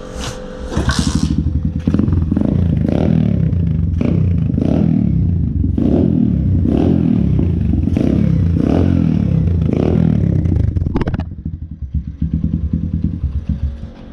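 Stomp 120R pit bike's small single-cylinder four-stroke engine revved in repeated throttle blips, about one a second, then falling back to a rough, uneven idle near the end. A couple of short scraping clatters come just before the revving starts.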